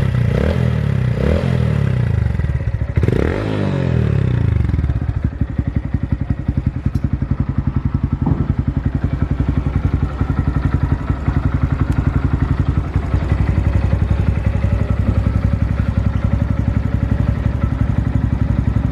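Honda Monkey 125's single-cylinder four-stroke engine running through an aftermarket BEAMS muffler: blipped twice, revved higher once about three seconds in, then settling to a steady idle.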